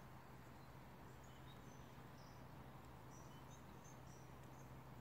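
Near silence: faint, short, high bird chirps scattered throughout over a low steady hum.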